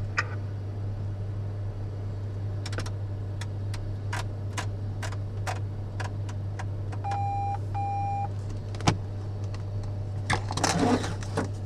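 Steady low hum in a small jet's cockpit with a series of sharp clicks from switches or buttons being pressed. Two short electronic beeps come about two thirds of the way through, and there is a brief burst of noise near the end.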